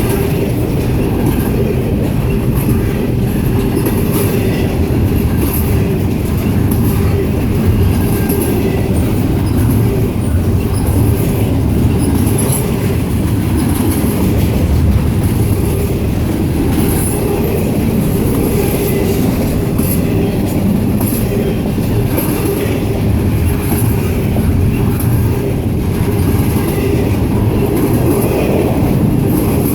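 Freight train cars rolling past: a steady, loud rumble of steel wheels on the rails, with faint high wheel squeal flickering in and out.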